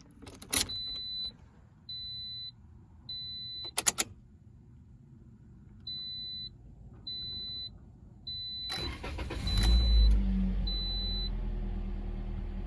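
A car's warning chime beeps repeatedly in short high tones, with a couple of sharp clicks. About nine seconds in, the 2018 Toyota Corolla's 1.8-litre four-cylinder engine cranks, catches, revs up briefly and settles into a steady idle.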